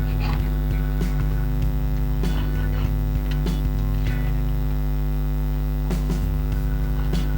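Loud, steady electrical mains hum with its buzzy overtones, with a few light clicks and scrapes of a tool working old adhesive off a phone frame.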